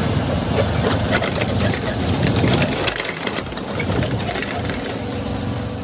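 Tractor engine running steadily with a low rumble, along with small rattles and clicks, heard from a ride on the tractor's trailer.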